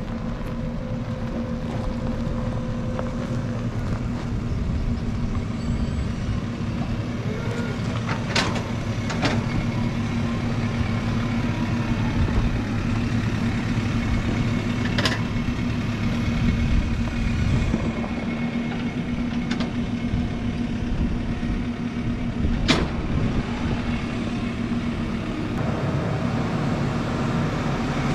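Case 120 utility tractor engine running steadily at low speed while it backs a header trailer. A few sharp knocks stand out over the engine, near the eighth, ninth, fifteenth and twenty-third seconds.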